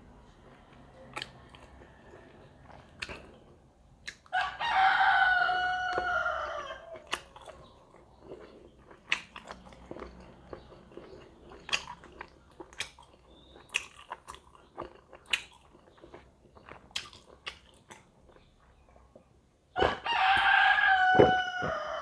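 A rooster crows twice, each call a long cry of two to three seconds that drops in pitch at the end. Between the crows come close-up chewing and the small clicks of eating.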